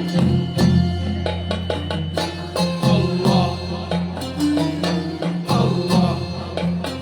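Instrumental passage of Libyan ma'luf music: hand drums strike a steady rhythm over a held low bass tone and a melody line.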